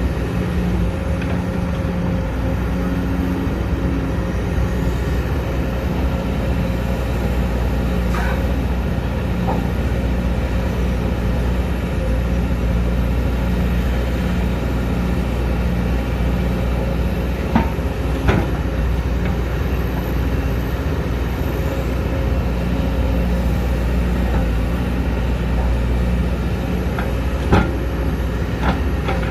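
Sumitomo SH210 excavator's diesel engine running steadily under working load, with a few sharp knocks about two-thirds of the way through and near the end.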